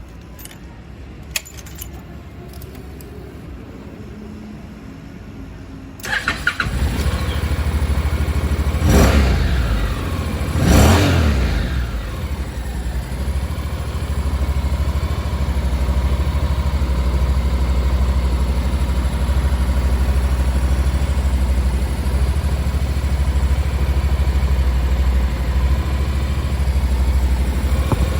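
Honda CTX700 parallel-twin motorcycle engine starting about six seconds in, revved up and down twice, then idling steadily. A single click sounds shortly before the start.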